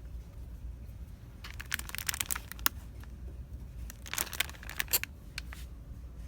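Crinkling and crackling of plastic packaging being handled, in two bouts a couple of seconds apart, over a steady low hum.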